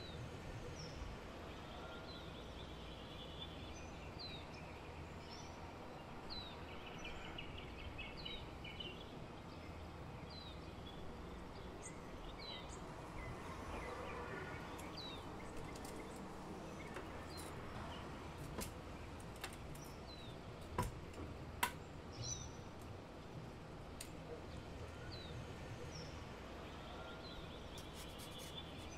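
Small birds chirping: short, high, downward-sliding chirps every second or two over a faint steady background noise. Two sharp clicks come about three-quarters of the way through.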